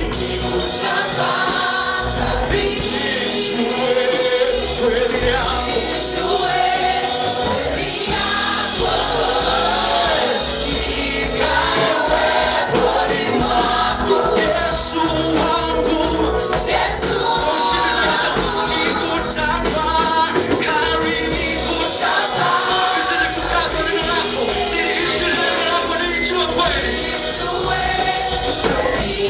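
Gospel choir singing a praise song with instrumental accompaniment.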